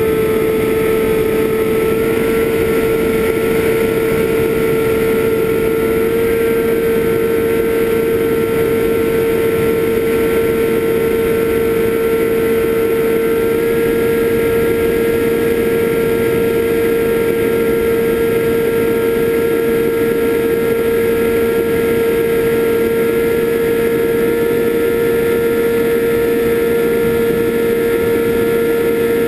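FPV drone's motors whining at a near-constant pitch in steady cruising flight, the pitch creeping slightly higher a few times.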